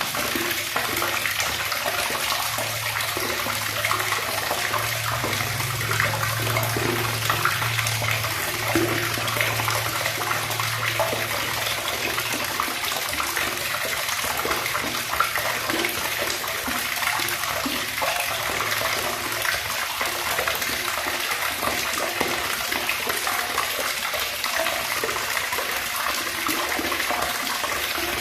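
Tap water running in a steady, unbroken stream.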